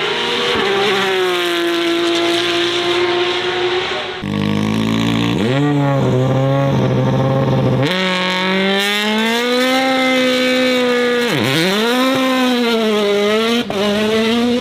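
Racing car engines under hard acceleration, in several clips cut together. The engine note climbs with revs and drops sharply at a gear change or lift about two-thirds of the way through, then climbs again.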